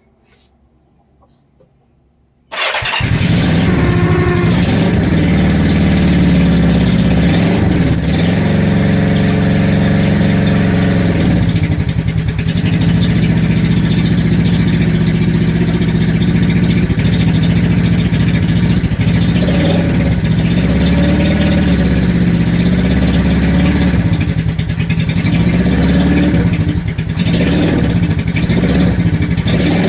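Honda CB350 motorcycle engine starting about two and a half seconds in, then running steadily with the revs rising and falling a few times. It carries an abnormal squeal on start-up that the owner thinks may be the starter.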